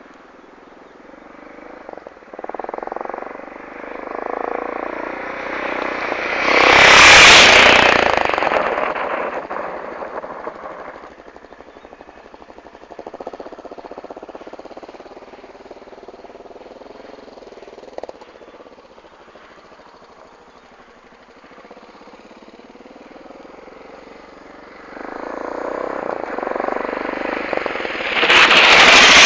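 BMW F650GS motorcycle with an aftermarket Scorpion exhaust riding past twice. Its exhaust note builds, peaks loudly about seven seconds in and fades away, then builds again to a second loud pass near the end.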